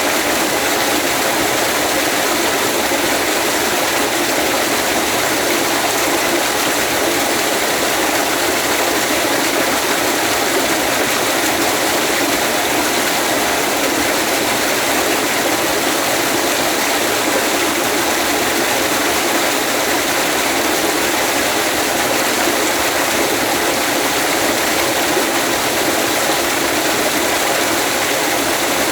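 Waterfall: falling water rushing in a steady, even hiss with little deep rumble.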